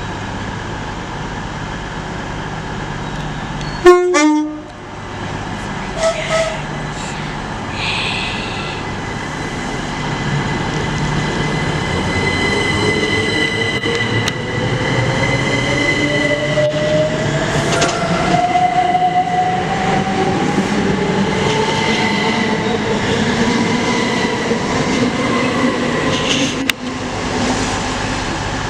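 A train horn gives one short, loud blast about four seconds in, followed by briefer tones. Then a train's running noise grows louder, with a whine that climbs slowly in pitch.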